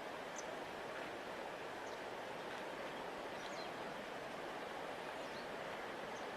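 Steady rushing of a large river flowing, an even wash of water noise with no change in level. A few faint, short high chirps come and go over it.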